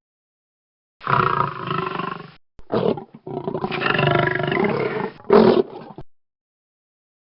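A large animal roaring in a series of calls: a long call about a second in, a short one, a longer call, then a final short one.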